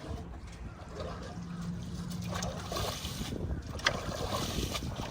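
Water running, with wind rumbling on the microphone and a sharp click about four seconds in.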